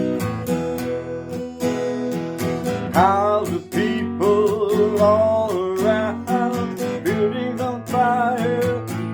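Acoustic guitar strumming chords in an original rock song. About three seconds in, a melody line with sliding, bending notes joins over the strumming.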